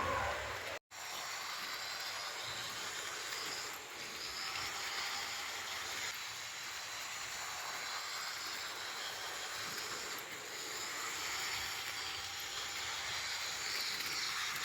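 H0-scale model train running on its track: a steady rushing noise that cuts out for a moment about a second in.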